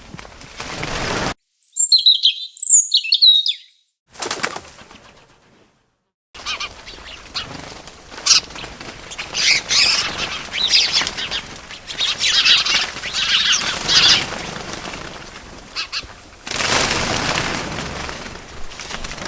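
Bird sounds: wings flapping in short rushes, with a few high chirps about two seconds in and more chirping through the middle, and a longer, louder rush of flapping near the end.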